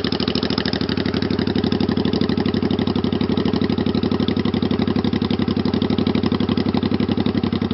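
1985 Honda Shadow VT500's V-twin engine idling through its open bobber exhaust pipes, a steady, even beat of exhaust pulses. The engine is still cold, warming up after its air/fuel screws were reset to the stock 2¼ turns.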